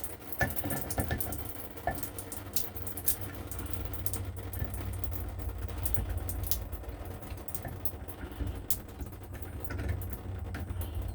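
Water dripping and pattering in a shower stall, with scattered small clicks and knocks, over a steady low rumble.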